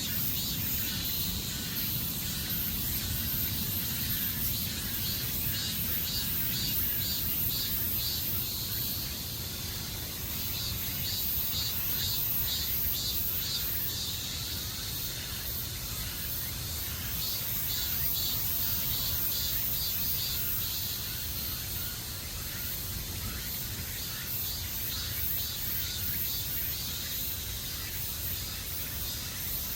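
Insects chirping in rapid pulsed trills that come in bursts, over a steady high-pitched insect hiss, with a low rumble underneath.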